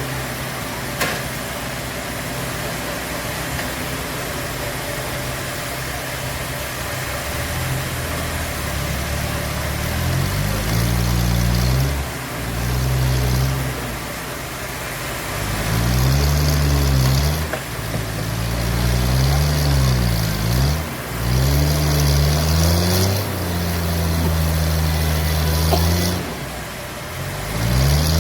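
Engine-driven sawmill machinery: the engine runs steadily, then from about ten seconds in revs up and down repeatedly, with a hiss during the louder stretches.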